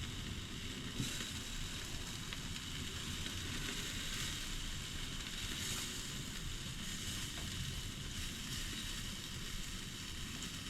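Jerk chicken legs sizzling over a barbecue fire: a steady hiss with a few faint crackles.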